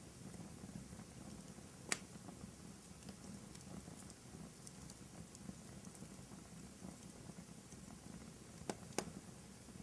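Wood fire burning in a fireplace: a steady low rush of flames with small crackles throughout and sharp pops from the burning wood about two seconds in and twice near the end.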